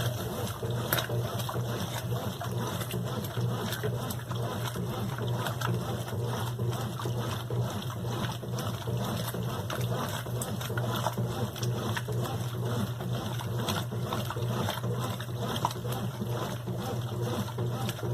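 Brastemp BWQ24 washing machine running, with water trickling and splashing inside it over a steady low hum.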